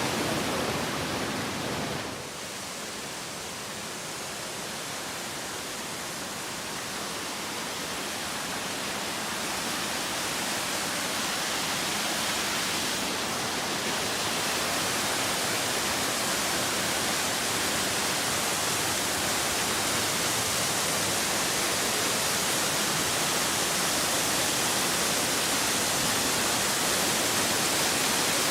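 Bemis Brook's water rushing steadily, running high with spring flow. The sound drops suddenly about two seconds in, then slowly grows louder.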